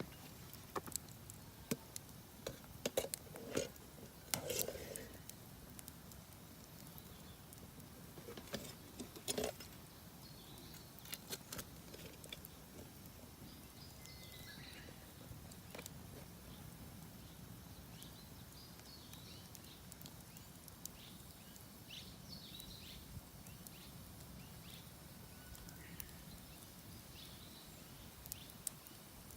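Campfire of damp, poorly burning firewood crackling, with sharp irregular pops, most of them in the first dozen seconds, then long quieter stretches with only an occasional snap.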